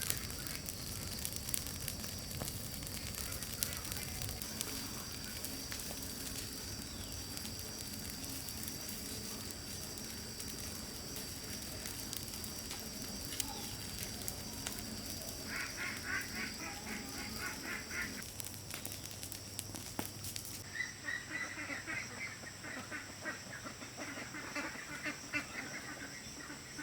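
Domestic waterfowl honking and calling in rapid runs, once a little past the middle and again through the last few seconds, over a steady high-pitched drone.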